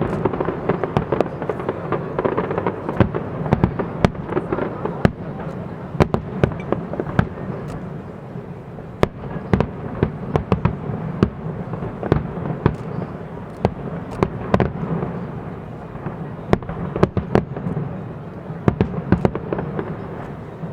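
Fireworks display: many sharp bangs at irregular intervals, sometimes in quick clusters, over a steady background din.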